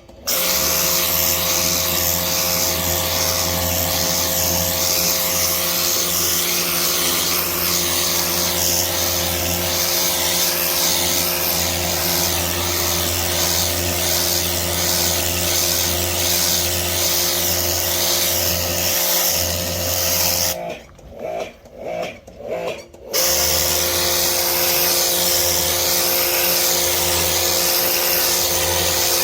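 Pressure washer running and spraying, a steady motor hum with hissing spray; it cuts out for about two seconds near the end, as when the trigger is let go, then starts again.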